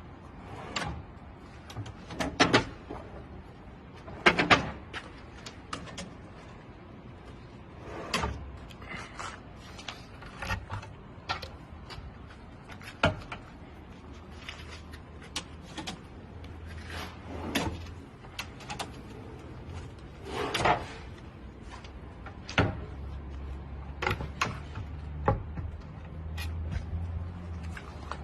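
Irregular wooden knocks and clacks, as of wooden parts being handled and set down on a bench. A low steady hum joins in about halfway through.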